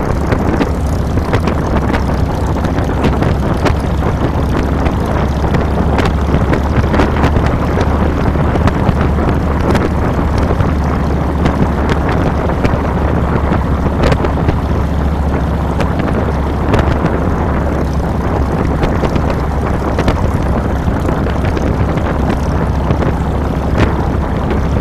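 2007 Harley-Davidson Fat Boy's Twin Cam 96B V-twin engine running steadily while under way, with wind rushing over the handlebar-mounted microphone.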